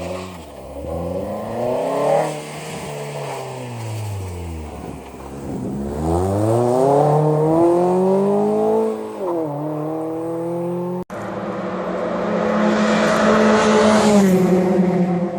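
Fiat Panda 100HP's 1.4-litre naturally aspirated four-cylinder engine rising and falling in revs several times, with a sharp drop in revs a little past halfway. After an abrupt cut it runs at a steadier note, with one more brief rise and fall near the end.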